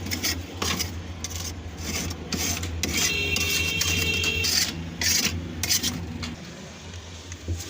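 Irregular rasping, scraping strokes, as of hand work on a surface during a restoration, over a steady low hum.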